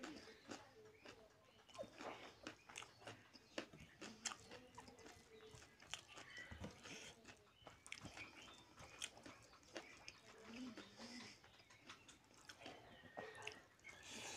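Faint close-up eating sounds of a man eating rice and chicken curry by hand: chewing with many soft wet smacks and clicks of the mouth, and fingers mixing rice into curry on the plate.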